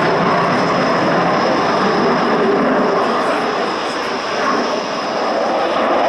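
Jet noise from the twin Klimov RD-33 turbofans of a MiG-29 fighter in flight: a loud, steady rushing sound with a thin high whine above it, easing off slightly about four seconds in.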